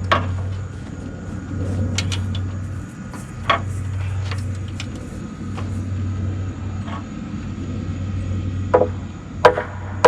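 About five sharp hammer blows on a solid white oak header, irregularly spaced, knocking it over a little at a time. A tractor engine idles steadily underneath.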